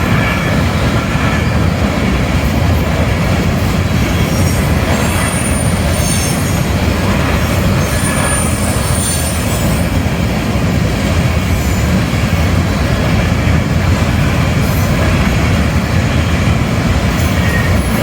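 Kansas City Southern freight train passing at speed: a steady, loud rumble of wheels on the rails, with thin, faint high squeals from the wheels now and then.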